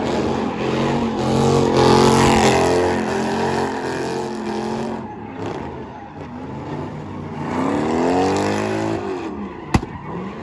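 A car engine revving hard, held at a high steady pitch for a few seconds, then revved again about eight seconds in, rising and falling. A single sharp crack sounds near the end.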